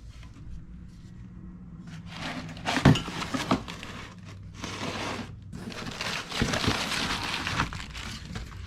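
Packing material being crinkled and torn as exhaust parts are pulled out of their box, with a sharp knock about three seconds in, over a low steady hum.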